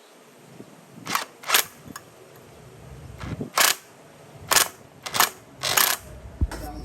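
Six sharp taps or clicks, irregularly spaced: a quick pair, a pause, then four more about two thirds of a second apart.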